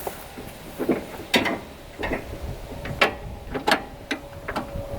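Irregular metallic clicks and clunks from the gear shift and drivetrain of a 1964 John Deere 2010 crawler dozer, worked by hand while shifting out of reverse and turning the shaft over.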